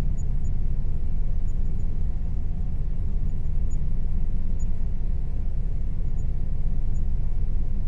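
Air conditioner running steadily: a constant low rumble with a faint, even hum above it.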